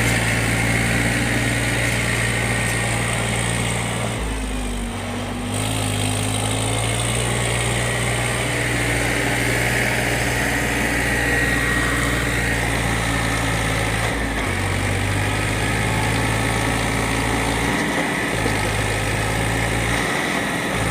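Tractor engine running steadily, its note dipping briefly a few times.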